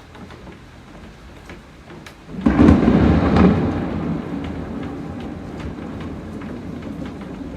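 Thunderstorm: steady rain with scattered drips, then a little over two seconds in a sudden loud thunderclap that rolls on as a long, slowly fading rumble.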